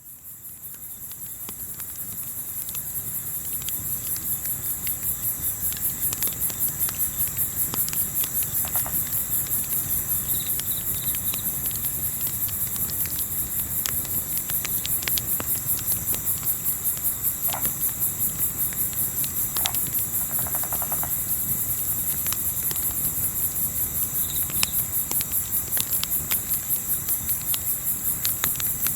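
Night chorus of crickets chirping in a fast, even pulse, fading in at the start, over a low rumble. Scattered crackles and pops from a campfire sound throughout.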